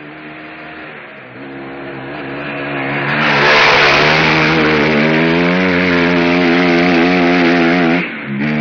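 Motocross bike engine revving hard. It grows louder over the first three seconds as it accelerates, then holds at high revs with a wavering pitch. Near the end the sound drops briefly, as when the throttle is shut and opened again.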